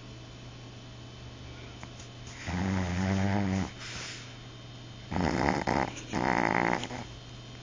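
A Chihuahua snoring in its sleep. A pitched, fluttering snore comes about two and a half seconds in, followed by a soft breath, then two more loud snoring breaths a second or so later.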